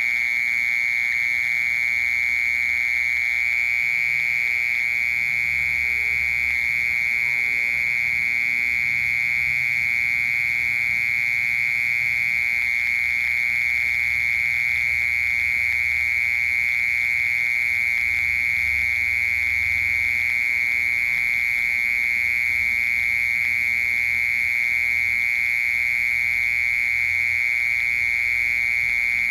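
Mole cricket singing: one continuous, steady high-pitched trill that holds the same pitch without a break.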